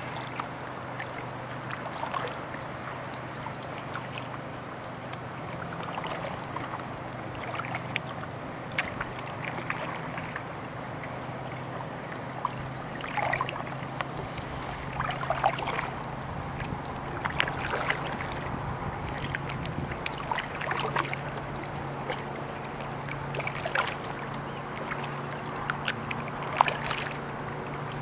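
Kayak paddle strokes dipping and splashing in the lake water, irregularly every second or two, over a steady low hum.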